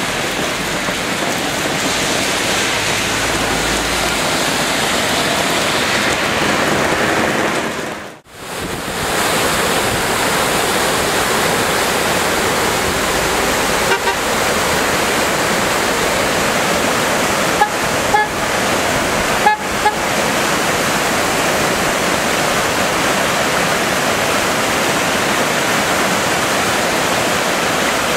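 Heavy rain and rushing floodwater making a steady loud noise that briefly drops out about eight seconds in. A few short car horn toots sound past the middle.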